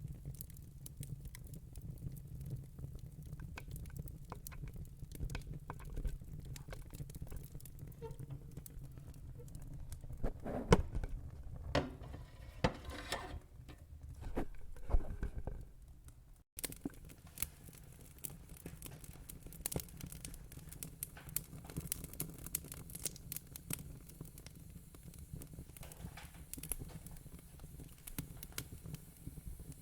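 Wood fire in a fire pit crackling: many small sharp snaps over a low steady rumble, with a run of louder pops and crackles in the middle. The sound drops out for an instant about halfway through, then the crackling goes on.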